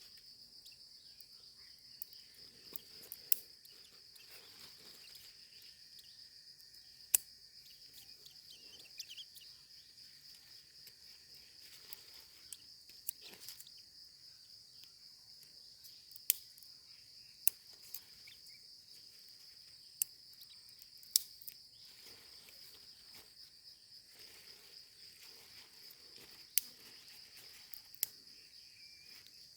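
Steady high-pitched trill of insects calling without a break, with a dozen or so sharp clicks scattered through it.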